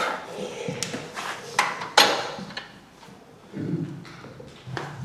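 A few separate sharp knocks and taps of wood on metal as a drilled wooden handle blank is fitted between the lathe centres on a small step centre, with the lathe not running.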